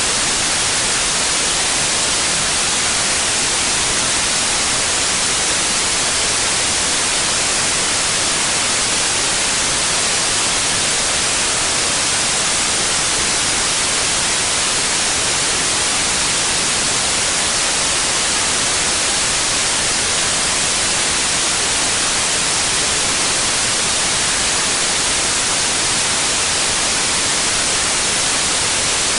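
Steady white noise: an even, unbroken hiss, brightest in the upper range, with no changes or events.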